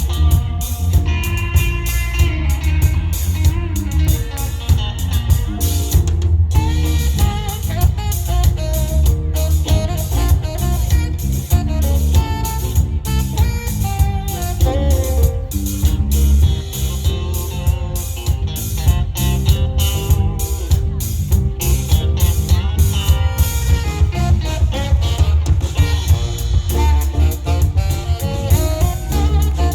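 Live funk band playing an instrumental: electric guitar over a steady groove of bass guitar and drum kit, with a melodic lead line running on top.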